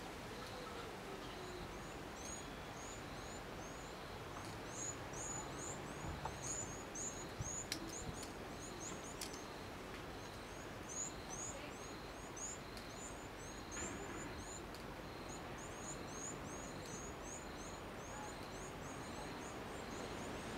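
A small bird chirping in quick runs of short, high chirps, several a second, broken by brief pauses, over a steady outdoor background hiss.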